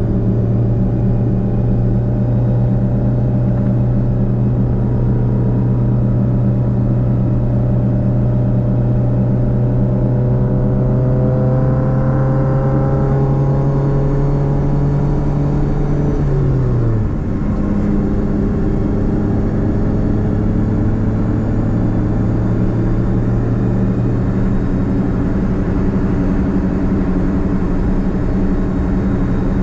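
Nissan Platina (Renault Clio) four-cylinder engine with a straight-pipe exhaust, giving a steady drone while driving. The pitch creeps slowly upward, drops sharply about seventeen seconds in, then holds steady again.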